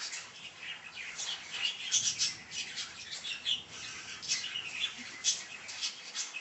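A hen moving about inside a box: irregular scratching and rustling, with a few short chirps.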